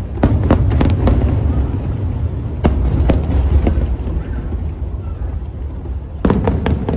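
Aerial firework shells bursting in clusters of sharp bangs, about a second in, around three seconds in and again near the end, over a steady low rumble.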